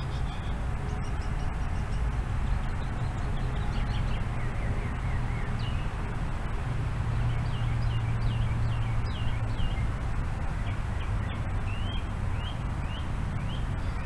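Birds chirping in quick, short calls, several a second, with a run of rising chirps near the end, over a steady low rumble and hiss of outdoor background noise.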